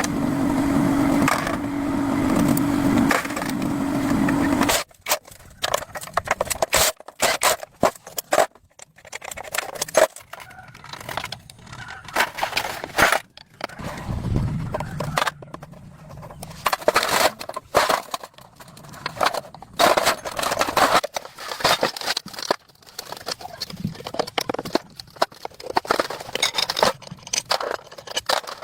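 A steady mechanical hum that cuts off suddenly about five seconds in, followed by many irregular clicks, knocks and scrapes typical of hand-tool work on metal parts.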